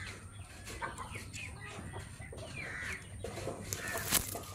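Birds calling in the background, a scatter of short chirps and clucks, with one sharp click about four seconds in.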